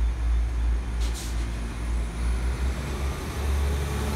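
West Midlands Railway Class 172 diesel multiple unit drawing into the platform, its engine and wheel noise growing louder as it nears, over a steady deep rumble. A brief hiss comes about a second in.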